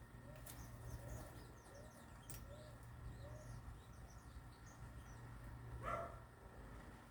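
Small birds chirping faintly, with a string of soft, evenly spaced low notes in the first half and one louder call about six seconds in, over a steady low hum.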